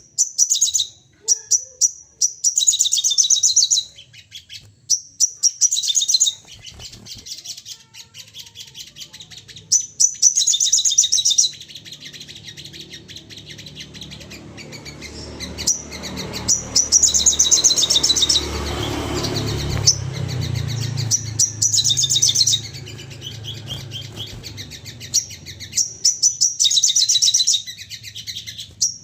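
A sogon bird calling in agitated, rapid-fire bursts of high chattering that come again every few seconds: the excited display calling used as a lure to set other sogon birds singing. A low rumble comes up in the middle of the stretch and fades again.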